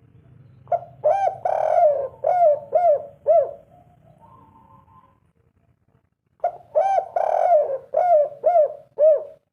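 Spotted dove cooing: two phrases, each a run of several short arched coo notes, the second starting about six and a half seconds in.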